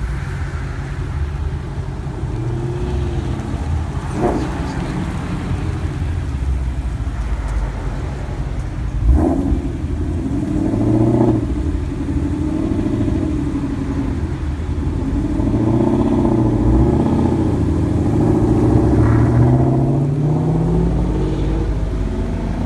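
Car engines running with a steady low rumble, one revving with a rising pitch near the end. Two short sharp knocks stand out, about four and nine seconds in.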